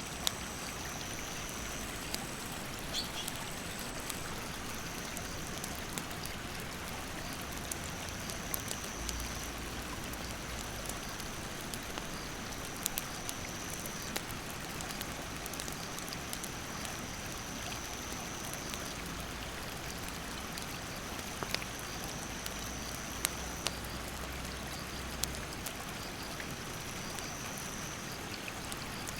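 Mountain stream rushing steadily, with a wood fire crackling in scattered sharp pops. Insects keep up a high-pitched buzz in long stretches of a few seconds that start and stop.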